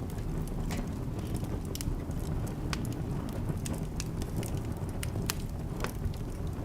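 Wood fire burning in a fireplace: a steady low rumble of flames with irregular crackles and pops, several a second, one sharper pop near the end.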